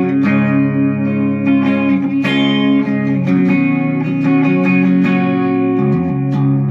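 Chapman SAR63 electric guitar played through an amplifier, with chords and single notes ringing and changing every fraction of a second.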